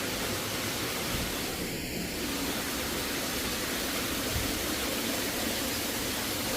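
Steady rushing hiss with no distinct events, holding an even level throughout.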